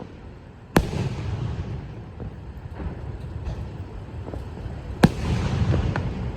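Fireworks bursting: a sharp bang just under a second in and another about five seconds in, each followed by a rumbling echo and scattered crackle.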